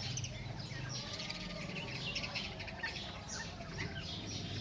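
Birds chirping: many short, high chirps in quick succession, over a low steady hum.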